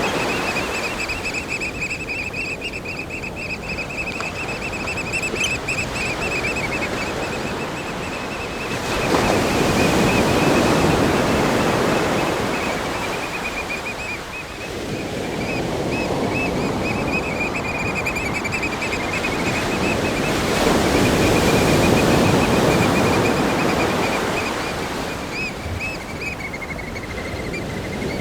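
Ocean waves breaking on a rock groin and sandy shore: a continuous rushing wash that swells twice, about ten seconds in and again a little past twenty seconds. A thin, steady high trill runs underneath.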